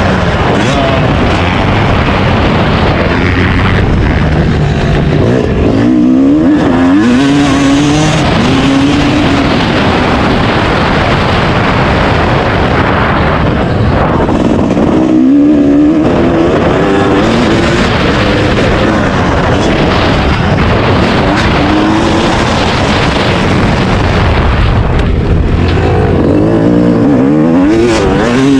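Dirt bike engine running hard and revving, its pitch rising and falling several times, over a constant loud rushing noise.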